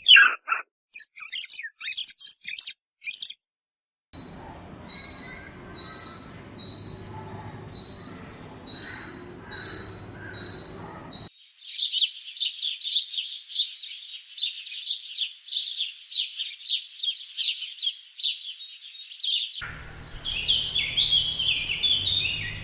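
Small birds chirping in several separately cut recordings. First come quick high chirps, then a single repeated note about once a second over a low background rumble, then a long stretch of dense, fast chirping. Near the end there is a short run of falling notes.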